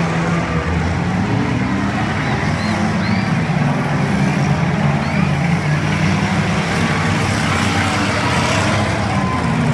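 Several demolition derby cars' engines running and revving together at a steady loud level, mixed with noise from the arena.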